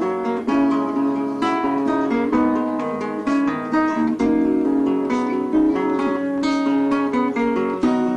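Guitar music: plucked notes and strums following one another in quick succession.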